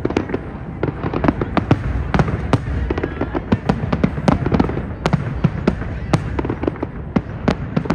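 Fireworks display going off, a rapid irregular string of sharp bangs and crackles, several a second, over a continuous low rumble of more distant explosions.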